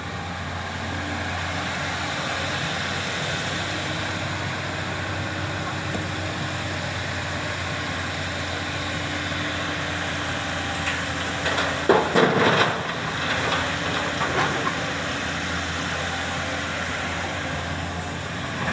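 Diesel engine of a JCB excavator running steadily under load, with a burst of knocks and rattles about twelve seconds in, dying away over the next two seconds, as a bucketful of earth and stones is dropped into the dumper's steel body.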